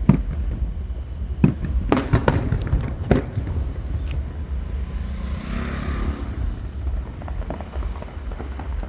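Aerial fireworks going off: scattered sharp bangs, several close together about two seconds in, with a hissing crackle around the middle.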